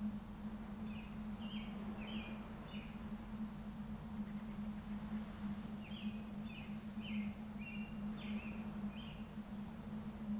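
A small songbird sings two runs of short, quick notes, a brief one about a second in and a longer one about six seconds in, over a steady low hum and faint outdoor background noise.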